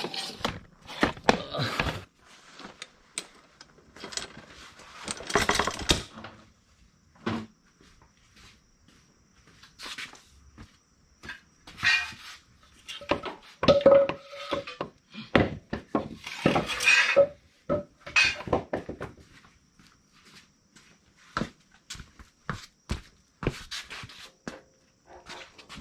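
Irregular clunks, knocks and scraping of equipment being handled and moved around, with quiet gaps in between.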